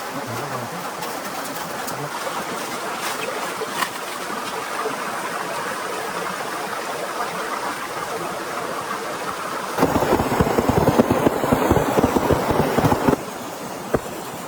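Steady rain. About ten seconds in, a louder rushing with fast, dense patter starts suddenly and stops just as suddenly some three seconds later.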